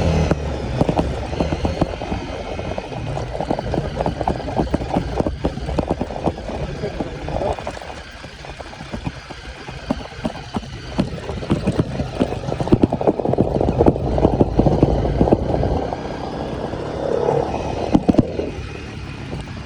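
Off-road vehicle engine running on a rough trail, with frequent knocks and rattles from the bumpy ground.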